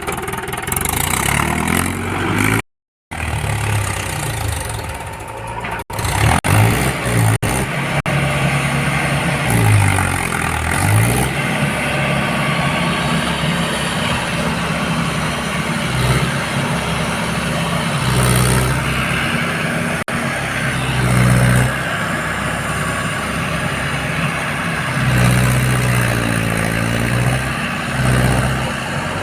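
Diesel tractor engine running and revving up and down again and again, its note rising and falling, with a couple of abrupt cuts a few seconds in.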